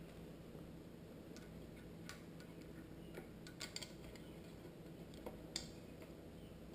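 Scattered small clicks and taps of plastic headlight parts being handled and fitted together, irregular and a few in quick succession around the middle, over a faint steady hum.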